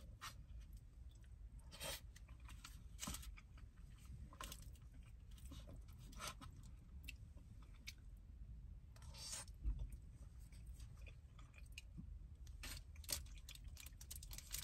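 Close-miked chewing of food, faint, with irregular wet smacks and clicks of the mouth.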